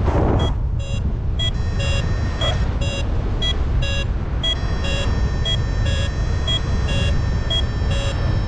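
Paragliding variometer beeping about twice a second, its pitch shifting a little from beep to beep. This is the climb tone that signals rising air in a thermal. Steady wind rushes on the microphone underneath, with a gust right at the start.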